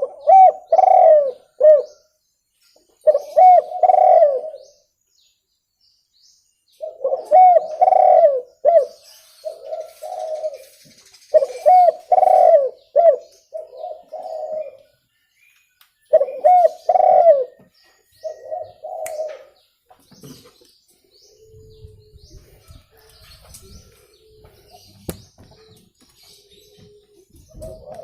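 Spotted dove (tekukur) cooing: phrases of several soft, bubbling notes repeated every few seconds. The calls stop about twenty seconds in, leaving only faint low sounds, and start again near the end.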